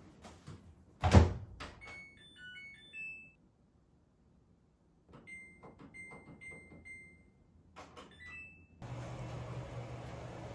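A thump, then a short run of electronic beeps of varying pitch. After a pause come four identical beeps, then a steady low hum.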